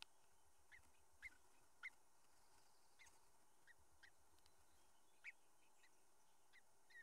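Faint, short bird chirps, about ten of them scattered irregularly over a quiet hiss.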